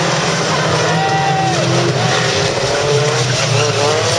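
Several banger racing cars' engines running and revving around the track. Their pitch rises and falls over a continuous low rumble.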